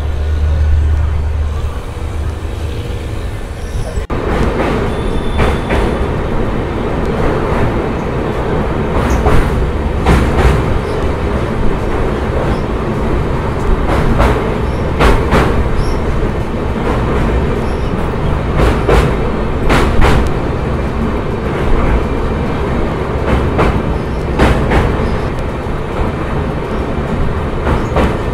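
Indian Railways sleeper-class coach rolling along the track, heard through the open window: a continuous rumble with wheels clacking over rail joints at irregular intervals. About four seconds in it grows suddenly louder and stays so as the train runs out over a river bridge.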